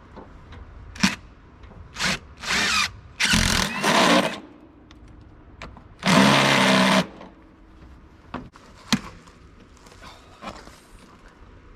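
Power drill fitted with a spade bit boring a hole through a tractor panel, run in short bursts: two brief ones, then two of about a second each with a steady motor whine. The first of the longer bursts comes about three seconds in, the second about six seconds in.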